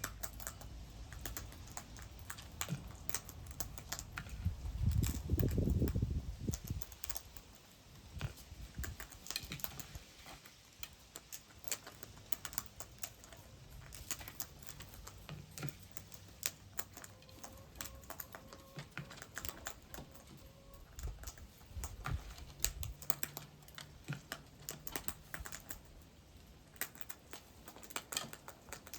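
Birds feeding, their beaks pecking and tapping in quick irregular clicks, with a low rumble about five seconds in.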